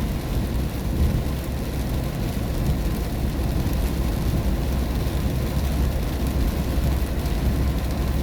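Steady low rumble of a car driving on a wet road, heard inside the cabin, with tyre and engine noise and rain on the car.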